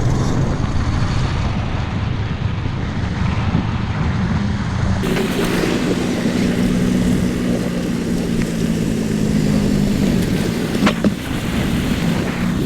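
Motorbike engine running on the move, with wind buffeting the microphone. About five seconds in, the sound changes abruptly to a steadier engine hum with a clear pitch.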